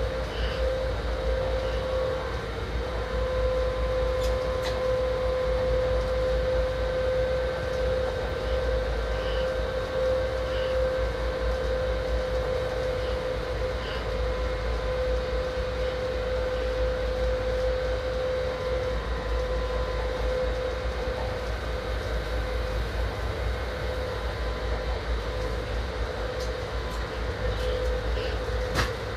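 Electric train running steadily, heard from the driver's cab: a low rumble of the running gear on the rails with a steady, unbroken whine over it and a few faint clicks.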